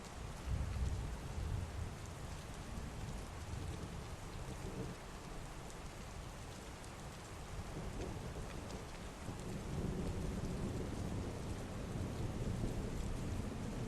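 Heavy rain falling steadily, with low rolling thunder rumbling under it: one swell about half a second in and a longer one from about ten seconds in.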